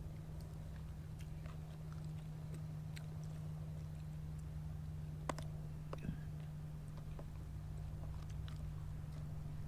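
Someone chewing food, with small mouth clicks and a couple of sharper ticks about five and six seconds in, over a steady low hum.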